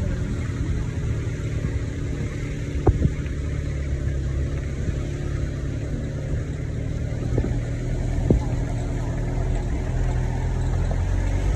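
A vehicle engine running steadily at a low, even pitch, with a few short knocks about three seconds and eight seconds in.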